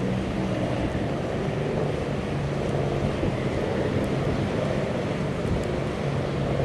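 Steady low hum of a container ship's engine machinery under strong wind, with wind buffeting the microphone.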